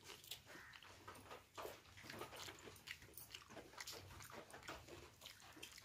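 Close-miked chewing and mouth sounds of a person eating: quiet, irregular clicks and smacks.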